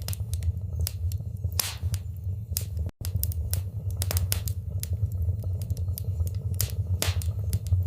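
Wood fire crackling in a fireplace: scattered sharp pops and snaps over a steady low rumble of the flames, with a brief cut to silence about three seconds in.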